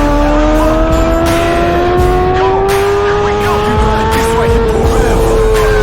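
Kawasaki Ninja ZX-6R 636 inline-four engine at high revs under acceleration. Its pitch climbs slowly, then starts to fall about four and a half seconds in as the revs drop.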